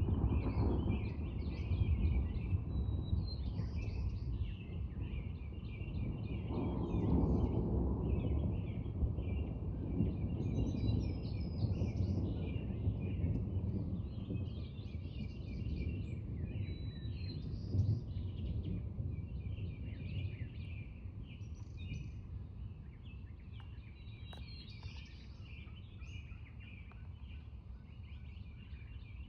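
Low rolling thunder rumbling, swelling a few seconds in and then slowly fading away, with songbirds chirping throughout.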